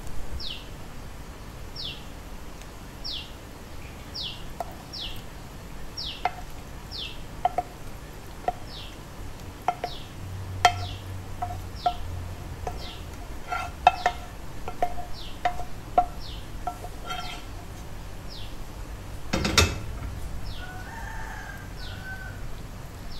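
A small bird repeating a short, high, falling chirp about once a second, with chickens clucking in short notes in the background and a single knock about three-quarters of the way through.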